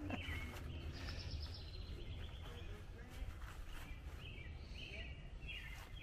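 Birds calling outdoors: short chirps repeated every second or so, with a quick trill about a second in, over a steady low rumble.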